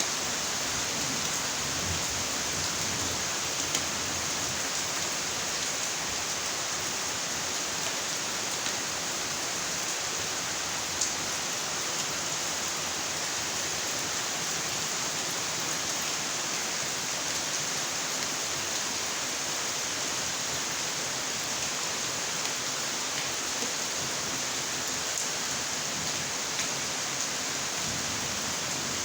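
Steady rain falling, an even hiss with a few single louder drops ticking now and then.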